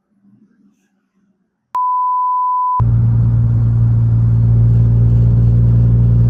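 A steady beep tone of about a second, then a car's engine droning steadily with a strong low hum from about three seconds in, as the car is driven.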